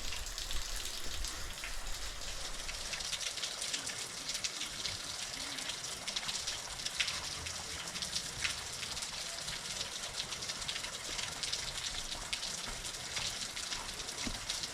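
A low-flowing waterfall trickling and spattering onto rock: a steady hiss with scattered small drips. The falls are running thin after a drought.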